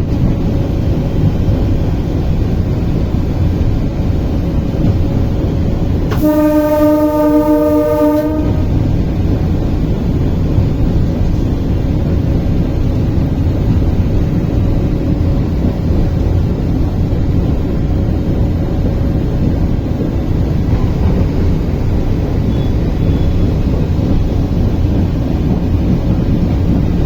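Train running with a steady rumble, its horn sounding once for about two seconds, about six seconds in.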